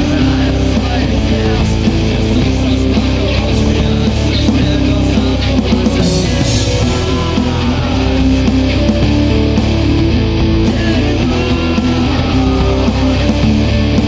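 Guitar-driven rock music from a band recording, playing at a steady, loud level.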